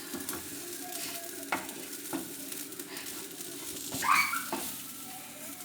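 Grated coconut and shallots dry-roasting in a frying pan, stirred and scraped, with a light sizzle and occasional scrapes; the coconut is browning and starting to come away from the pan. A brief higher-pitched sound about four seconds in.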